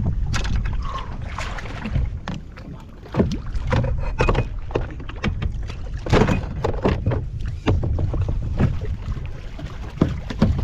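Wind buffeting the microphone on a kayak, with irregular knocks and clicks from gear being handled against the boat.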